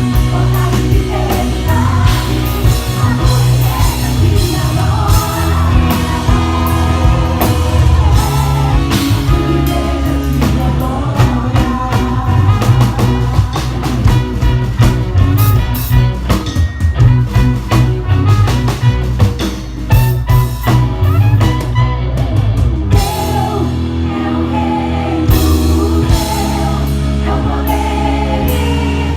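Live gospel band playing a medley, with drum kit, bass and singing over it. The bass and kick drum drop out briefly a little past the middle, then come back in.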